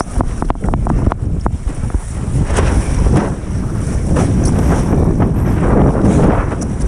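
Strong wind buffeting the microphone over rushing water while foiling on the sea. A run of sharp ticks comes in the first second or so, and a louder rushing hiss builds from about halfway in.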